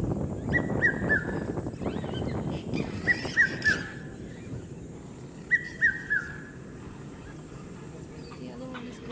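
A bird calls three times, each call a quick run of three short whistled notes that slide down in pitch, over a low background rumble.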